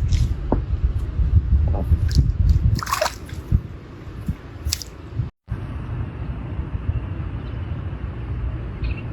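Water splashing and squelching in irregular bursts over a low rumble. The sound drops out briefly about five seconds in, after which a steadier low rumble follows.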